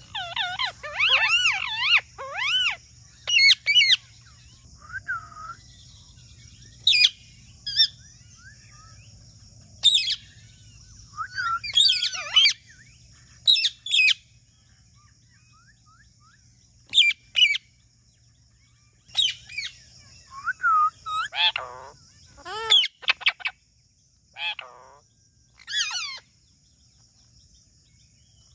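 Parrot calling in bursts of short, whistled chirps and squawks that bend up and down in pitch. The calls come thickly at first, then in scattered groups with pauses between them. A few lower, harsher squawks come near the end.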